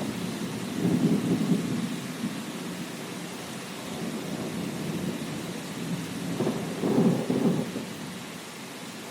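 Thunderstorm: steady rain with rolling thunder. A low rumble swells about a second in and again, louder, around seven seconds in.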